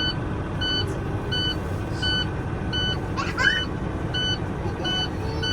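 Semi truck idling with a low steady rumble, under a high electronic beep that repeats evenly about one and a half times a second.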